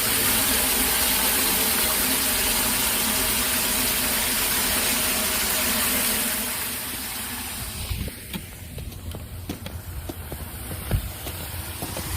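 Floodwater rushing down a cleared storm drain, a steady hiss that drops off about six and a half seconds in to a quieter wash with scattered clicks and knocks.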